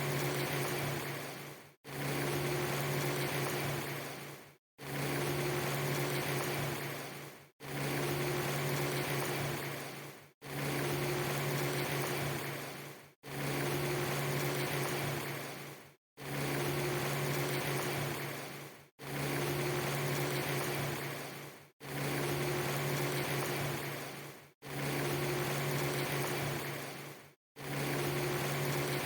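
A steady low hum over a hiss, like a running motor. It is a short loop of under three seconds that fades and cuts to a brief silence, then starts again, about ten times over.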